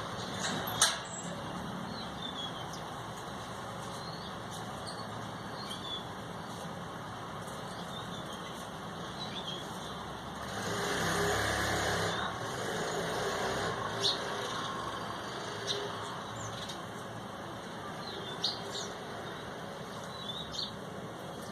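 Small birds giving short chirps now and then over steady background traffic noise, with a vehicle passing at about ten to twelve seconds in.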